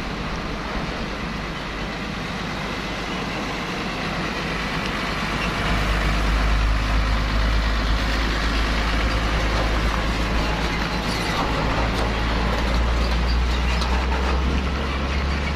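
Heavy container truck engines running, with no speech. A deep rumble grows markedly louder about five and a half seconds in and stays loud, as a truck comes close.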